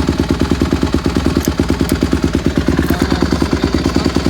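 A 2020 Honda CRF150RB dirt bike's four-stroke single-cylinder engine idling steadily with an even, rapid pulse after a cold start in freezing weather.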